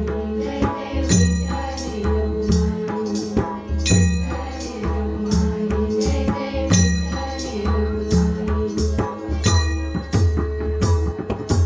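Marathi bhajan accompaniment without singing. A hand drum plays a steady rhythm of deep pitched strokes, and small hand cymbals strike with a metallic ring, over a held note.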